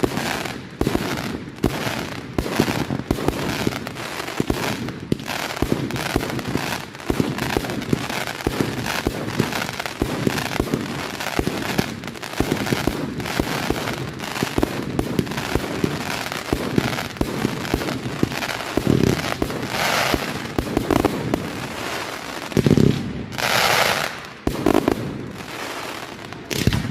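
Display fireworks going off in a dense, continuous barrage of bangs and crackling, with a louder hissing burst near the end.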